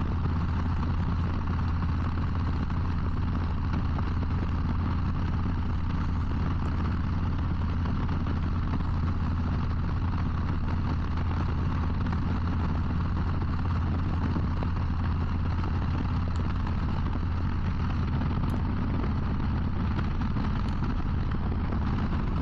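Harley-Davidson Low Rider ST's Milwaukee-Eight 117 V-twin running steadily at cruising speed on cruise control, under wind and road noise.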